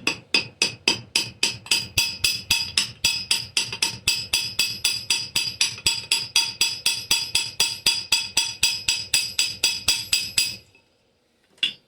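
Homemade armourer's hammer peening rivets in a miniature traction engine's smoke box: fast, even blows at about four a second, each with a metallic ring, for about ten seconds, then two more single strikes near the end.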